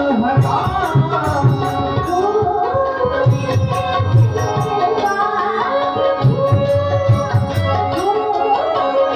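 Devotional abhang music in an instrumental passage: tabla playing a steady rhythm under a sustained accompanying melody.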